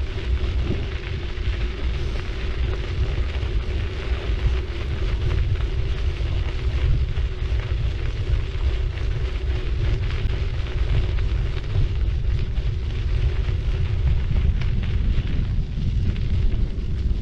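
Wind rumbling on the microphone of a GoPro MAX on a moving bicycle, with the hiss of the city bike's tyres rolling on the road and a faint steady tone underneath.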